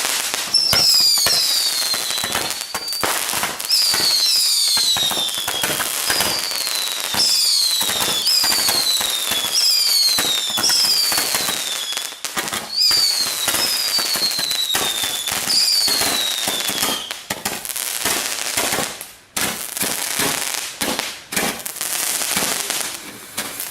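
A ground-based multi-shot fireworks cake firing in rapid succession: a string of bangs and crackles, mixed with about ten falling whistles. The whistles stop about two-thirds of the way through, and only bangs and crackling continue.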